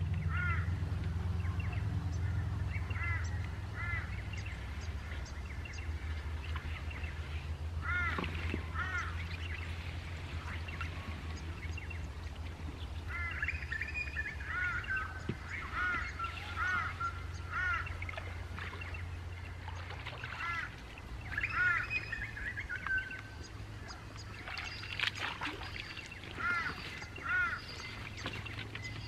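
Birds calling: short arched call notes repeated in pairs and runs, over a low steady rumble that fades about two thirds of the way through.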